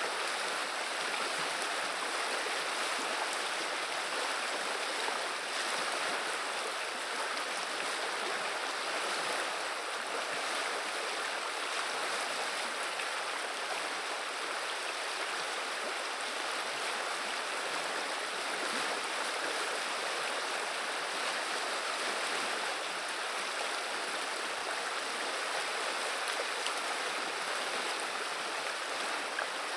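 River water running and babbling in a steady, even rush.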